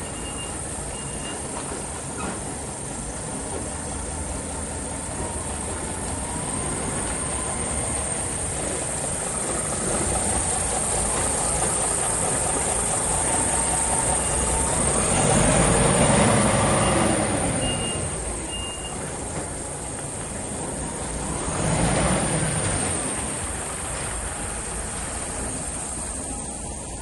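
DAF XF480 truck's six-cylinder diesel engine running, growing louder for a few seconds around the middle and again briefly later, with a short run of high beeps.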